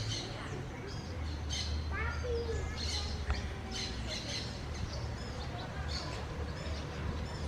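Several small songbirds chirping and twittering in quick, overlapping short calls, with a low rumble beneath.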